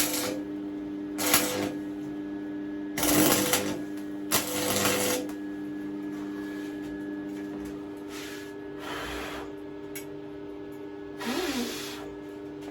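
Stick (arc) welding in several short runs of under a second each, the arc crackling and sputtering, over a steady electrical hum.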